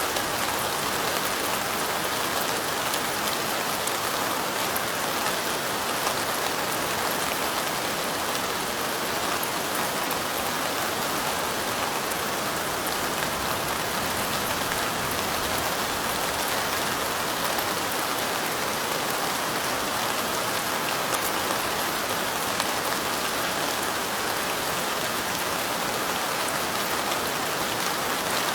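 Steady rain falling, a dense even patter of drops with fine high ticks, unchanging throughout.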